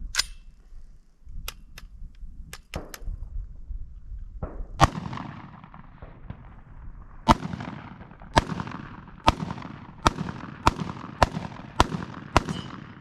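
A Smith & Wesson M&P15 AR pistol in 5.56 with a 7.5-inch barrel and blast can firing about nine unevenly spaced shots, roughly one a second, each with a short echo. A few light, sharp clicks come before the first shot.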